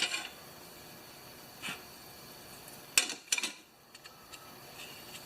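Light clicks and clatter of small hard recoil-starter parts being handled: a faint click a little under two seconds in, then a sharper click at about three seconds followed by a few quick ones.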